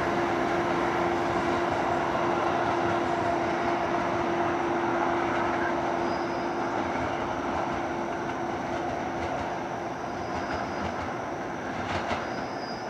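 Departing New Jersey Transit commuter train, hauled by a PL42AC diesel locomotive, running steadily away into the distance; the rumble and rail noise slowly fade, and a steady hum dies out about nine seconds in.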